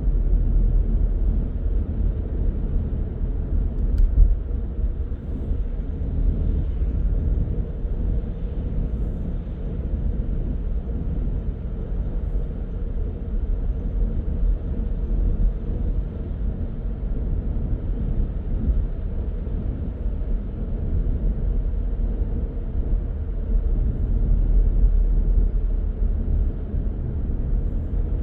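Car driving on the road: a steady low rumble of tyres and engine, with a single short click about four seconds in.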